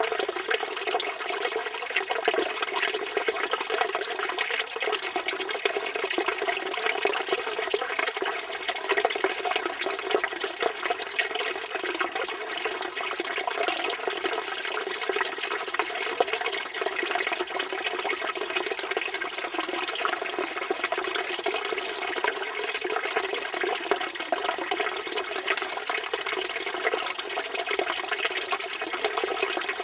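Water pouring steadily from the spout of a village fountain and splashing, an even, unbroken rush.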